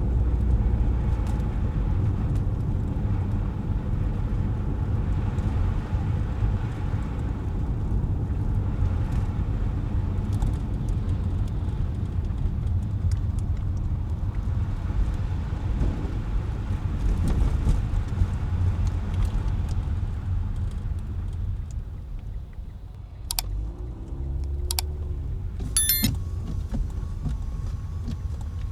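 A car driving through city streets: a steady low rumble of engine and tyre noise. A few sharp clicks and a short ringing tone come near the end.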